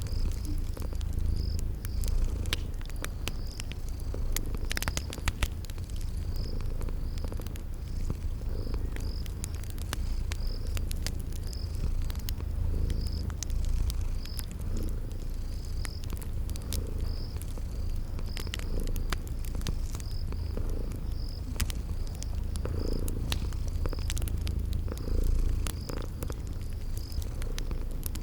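A cat purring steadily in a low rumble, mixed with the irregular snaps and pops of a crackling wood fire. Crickets chirp in a steady, even rhythm high above.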